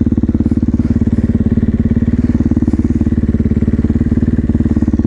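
450cc single-cylinder supermoto engine idling steadily, an even rapid thumping that holds the same pitch throughout.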